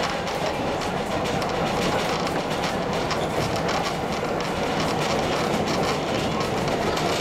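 Heritage train running along the track, heard from on board: a steady rumble of wheels on rail with irregular light clicks.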